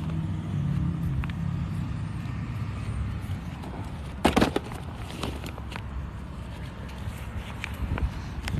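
Handling noise of a phone being fitted into a holder: a steady low rumble with scattered small clicks, and one sharp clack about four seconds in.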